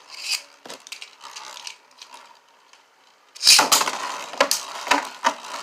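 Beyblade spinning tops launched into a plastic stadium about three and a half seconds in, then clattering and clashing against each other and the stadium walls with many sharp, irregular hits. A few faint clicks and rattles come before the launch.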